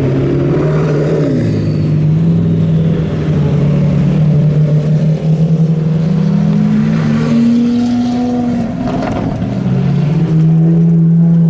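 Supercar engines as the cars drive slowly past one after another — a McLaren, a Lamborghini Aventador and a Ferrari 458 — a steady low engine note, rising in pitch about six to eight seconds in as one is given throttle.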